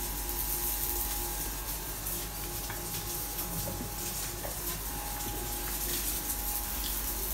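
Burger patty frying in a pan: a steady sizzling hiss, with a faint steady tone behind it.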